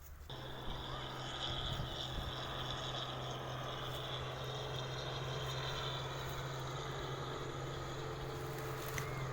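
A motor running with a steady low hum and a high whine, starting abruptly just after the start.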